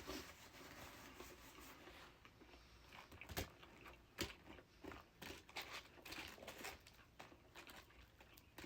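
Quiet close-miked eating: chewing a chicken croissant, with scattered sharp clicks and crunches, two of them standing out a little past the middle.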